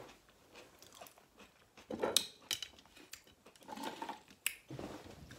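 Close-miked chewing of a mouthful of meatloaf: scattered wet mouth smacks and clicks, a handful of them in the second half.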